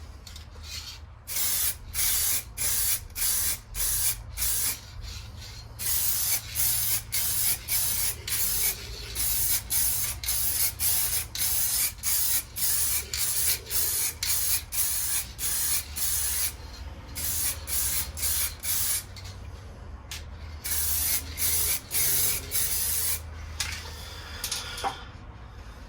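Clear lacquer being sprayed onto a motorcycle wheel in short hissing bursts, about two a second, in several runs broken by brief pauses. A steady low hum sits underneath.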